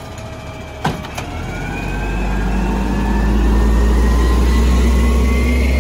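Volvo WX refuse truck with a Bridgeport Ranger automated side-loader, its engine revving up under load as the arm works. Two sharp knocks about a second in, then a rising whine over a heavy low rumble that grows louder.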